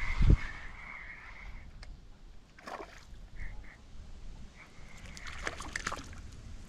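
Canoe being paddled: a low knock against the hull near the start, then quieter water and handling noise, with a run of sharp clicks near the end.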